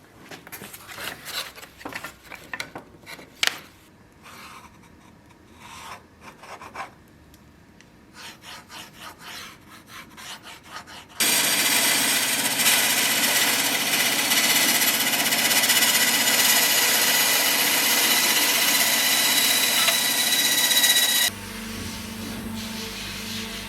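Hand rasp or file scraping on wood in irregular strokes, then a power tool running steadily with a high whine for about ten seconds before it stops abruptly. A low steady hum follows near the end.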